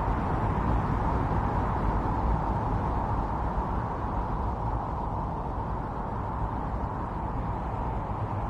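Strong wind of a snowstorm blowing steadily, a dense rushing noise over a low rumble, easing a little about halfway through.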